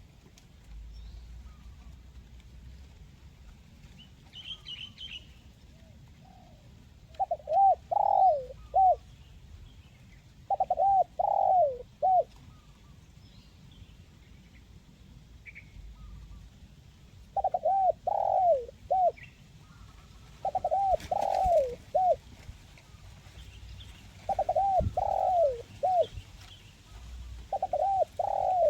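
Spotted dove (tekukur) cooing: six phrases of three or four arched coos, each phrase about a second and a half long and a few seconds apart. Faint short chirps of small birds come in between.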